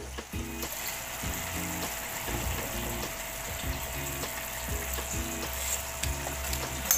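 Cubed squash and pork sizzling steadily in a pan with a little water.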